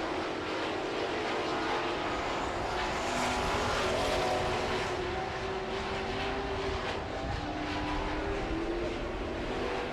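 A field of Super Truck race trucks running at racing speed, several engines revving up and falling back at once as they go around the oval.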